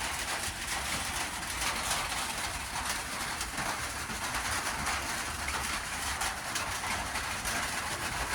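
Rain drumming on an iron sheet roof: a steady, dense patter of drops.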